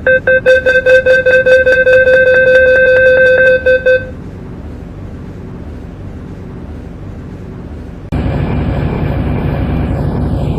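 MTR C-Train door-closing warning: a loud rapidly pulsing beep for about four seconds as the doors shut. About eight seconds in, traction motor and running noise comes in suddenly as the train pulls away.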